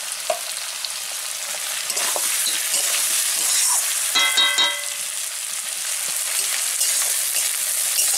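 Vegetables and a fried fish head sizzling in oil in a metal kadai, stirred and scraped with a metal spatula. About four seconds in, the spatula knocks against the pan a few times and it rings briefly.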